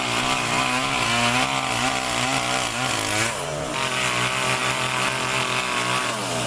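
Two-stroke chainsaw running and cutting, its engine note rising and falling with the throttle and the load, with a couple of quick dips and recoveries in pitch.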